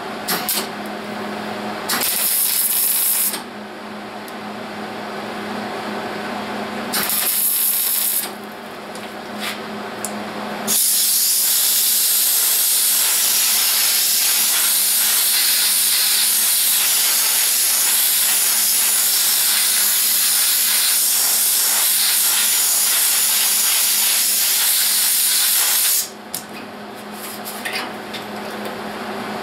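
Compressed air hissing onto freshly spot-welded sheet steel to cool it: two short blasts, then one loud blast lasting about fifteen seconds. A few brief crackles come between the blasts, over a steady hum.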